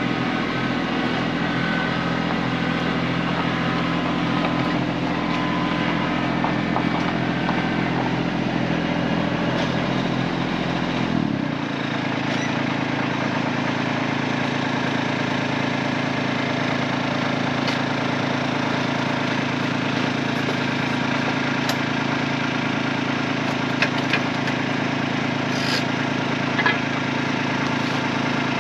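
Kubota tractor's diesel engine running steadily. Its sound shifts about eleven seconds in, and a few sharp clicks come near the end.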